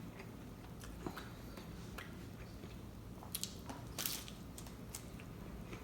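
Someone eating tacos up close: scattered small wet chewing clicks and crackles, with a louder cluster of crackles about three to four seconds in.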